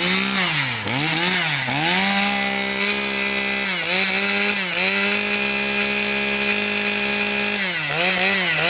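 Stihl FS460 brush cutter's 46 cc two-stroke engine revving: the throttle is blipped several times in quick succession, then held at high speed with two brief drops and a few more blips near the end.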